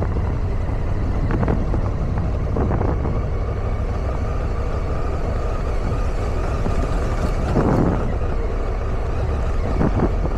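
Motorcycle engine running steadily while riding down a dirt mountain road, with wind and road noise. There is a brief louder rush near the end.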